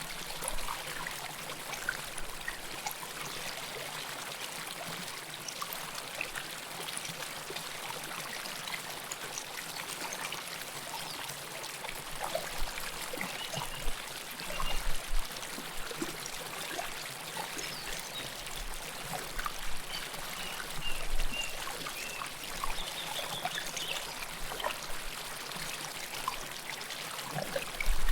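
River water flowing close up: a steady rushing with small trickles and splashes, swelling louder a few times.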